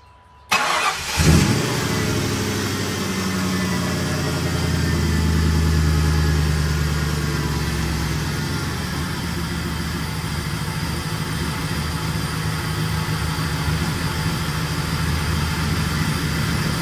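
A rebuilt car engine cranks and catches about half a second in, runs a little faster and louder for a few seconds, then settles into a steady idle. It has just been started after the misfire repair and a reset, and is being left to idle so it can clear itself out.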